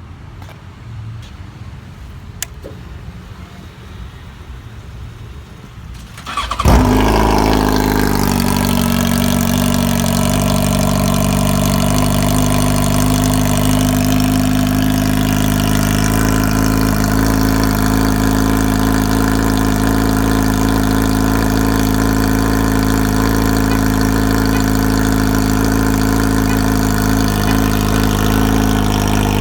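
Yamaha FZ1's inline-four engine, fitted with a TOCE custom exhaust, starting up about six seconds in with a loud burst as it catches, then idling steadily. Before the start there is only low background noise and one small click.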